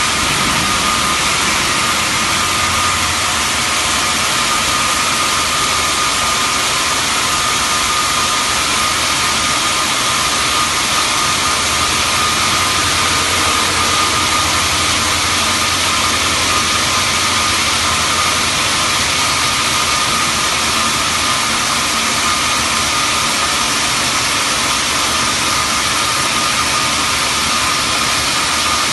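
Xianda CHJJ-1500 CNC band saw cutting marble: a steady, loud machine noise of the blade running through the stone, with a constant high whine over it.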